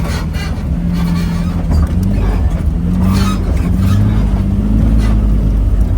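Off-road vehicle's engine running under load while crawling a rocky trail, its pitch drifting up and down with the throttle, with a few short knocks and rattles.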